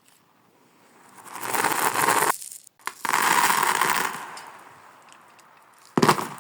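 Beads and cubes clattering and rattling, played in reverse. One long stretch of clatter swells up and cuts off sharply, a second follows and fades, and another starts suddenly near the end.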